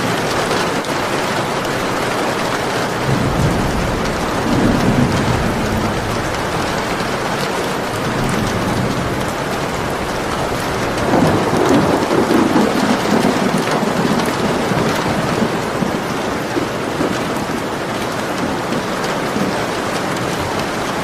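Steady heavy rain with rolling thunder: a low rumble swells and fades about three seconds in, and a second one about eleven seconds in.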